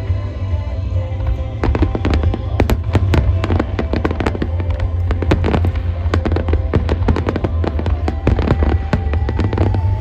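Aerial fireworks bursting, with many rapid sharp crackles over a continuous deep rumble of shell bursts, alongside music.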